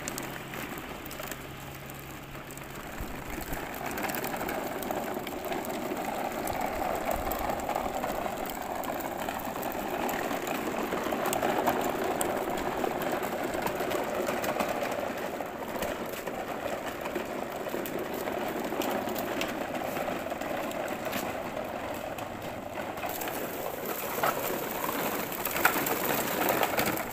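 Toy truck rattling steadily, a continuous mechanical clatter full of small clicks, as it is played with.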